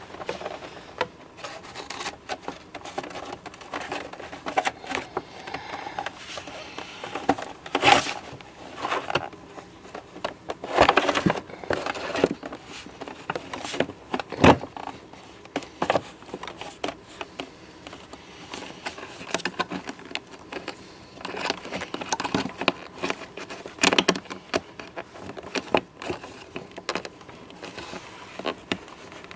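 Humidifier parts being handled: irregular clicks, knocks and scrapes, with a few sharper knocks now and then.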